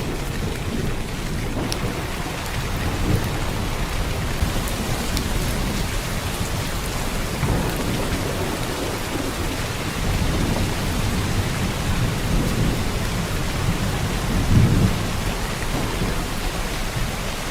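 Heavy downpour of rain, a steady hiss, with low rumbles of thunder swelling and fading several times, the strongest about fourteen and a half seconds in.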